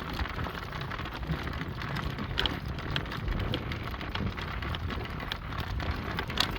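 Horse-drawn cart rolling along the road behind a trotting horse: a steady rolling rattle of the wheels, with scattered small clicks and knocks of hooves and harness.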